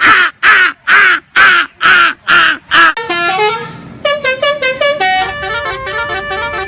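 A vehicle horn honks seven times in quick succession, about two blasts a second, each with a bending pitch. A quick tune of stepping notes follows, like a multi-tone musical horn.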